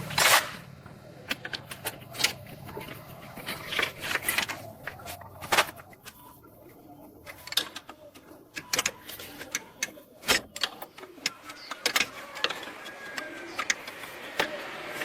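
Irregular sharp clicks and knocks of objects being handled, loudest right at the start.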